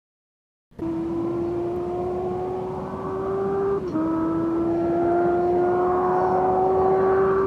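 A car engine pulling under power. Its pitch climbs slowly, drops suddenly about four seconds in, then climbs again.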